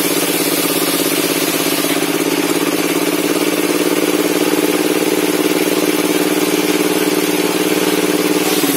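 Engine of a log-cutting circular table saw running steadily, with a small shift in its tone near the end.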